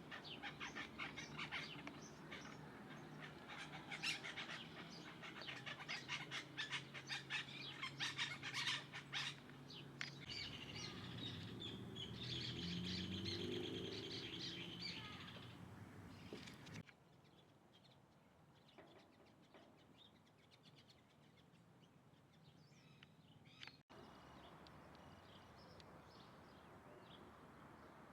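Birds chirping and calling in quick runs of short, high notes. About two-thirds of the way through the sound drops abruptly to fainter, scattered chirps.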